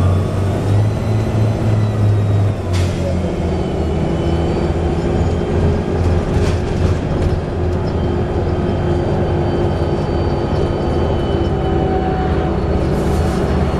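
Volvo B7TL bus under way, heard from inside: its engine and Allison automatic gearbox running steadily with a gear change about three seconds in. A thin high whistle runs over the engine note, of the kind the uploader puts down to a bad differential.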